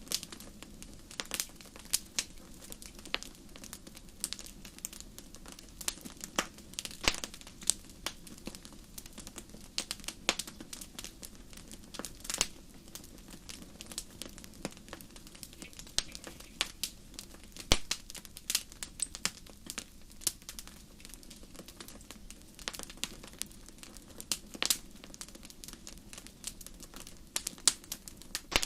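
Wood fire burning in a fireplace: irregular sharp crackles and pops over a low steady rush of flames.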